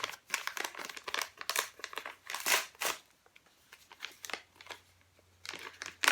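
Crinkling and rustling of a single-serve tea packet being handled and opened, busiest in the first three seconds and again near the end.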